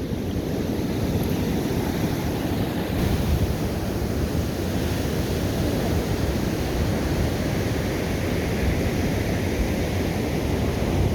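Pacific Ocean surf washing onto the beach, a steady rush of breaking waves, with wind buffeting the microphone.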